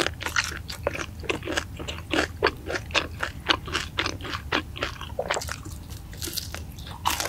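Close-miked crunchy chewing of crispy fried chicken, a steady run of about four crunches a second that thins out near the end.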